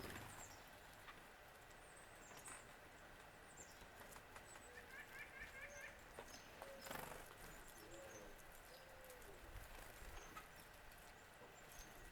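Faint wild bird calls: scattered high, thin chip notes, a brief quick trill about halfway through, and a few low, arched call notes.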